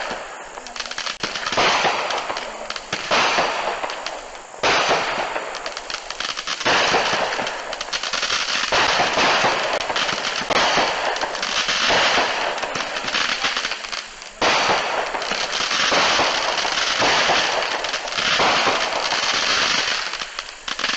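Small consumer firework cakes (mini show-starter cakes) firing: a dense, continuous run of rapid shots and bursts that breaks off and starts again abruptly a few times.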